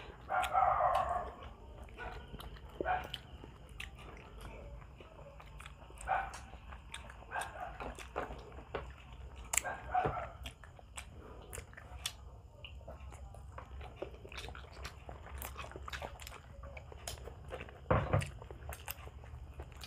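Close-miked mouth sounds of people eating Filipino grilled barbecue skewers: chewing, biting and wet smacking with many small clicks, and a few short, louder sounds, the first about a second in.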